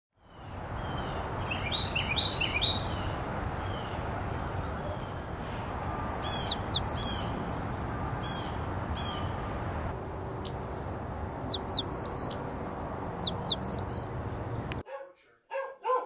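A songbird singing: a cluster of chirps about two seconds in, then twice a quick phrase of high notes that slur downward, over steady background noise. Near the end the background cuts off suddenly and a dog starts barking.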